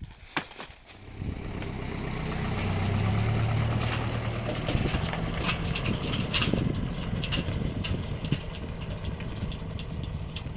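A motor vehicle's engine running steadily, growing louder over the first few seconds and then holding, with scattered clicks and knocks over it.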